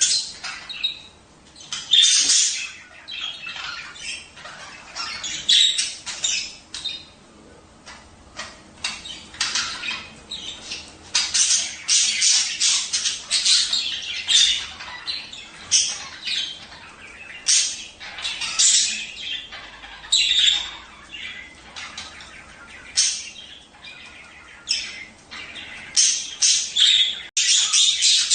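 Budgerigars chattering, a run of short, high chirps and squawks in bursts with brief lulls between.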